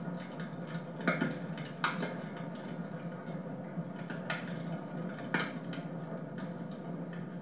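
Wood fire crackling in a fireplace, with sharp pops about one, two, four and five seconds in, over a steady low hum.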